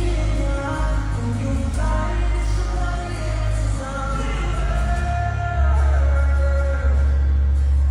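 Live pop song in a large hall: a singer's held vocal notes over a band with heavy bass, which swells about five and a half seconds in, and a few shouts from the crowd.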